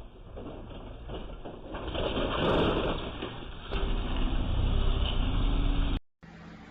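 Vehicle road and engine noise as a dashcam picks it up: a muffled rumbling drone that swells and eases. About six seconds in it cuts off abruptly, and a quieter steady hiss follows.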